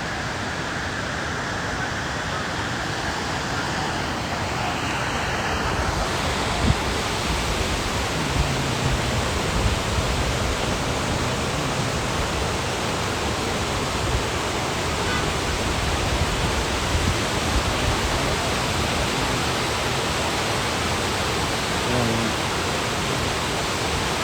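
Steady rush of fast-flowing water from a mountain river or waterfall, growing fuller and brighter about six seconds in.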